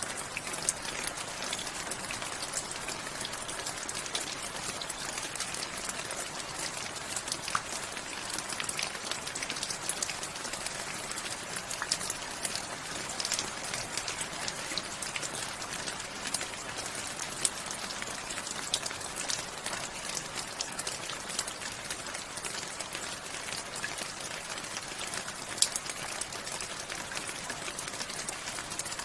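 Steady rain, with many separate close drop hits ticking over an even hiss. A few louder single drops stand out, one near the end.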